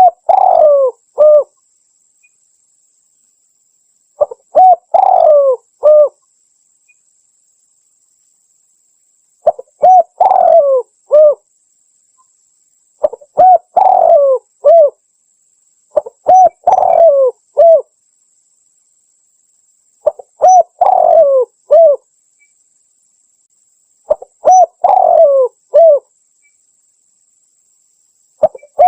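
Spotted dove (tekukur) cooing loudly and clearly: a phrase of a few short coos and one longer coo, repeated about every four seconds, seven times over with silence between.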